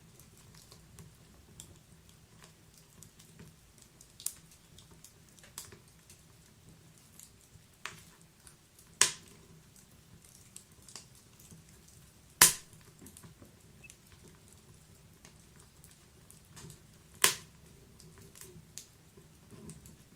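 Wood fire crackling in a fireplace: a low steady rustle of flames with scattered sharp pops and snaps, three of them louder, about 9, 12 and 17 seconds in.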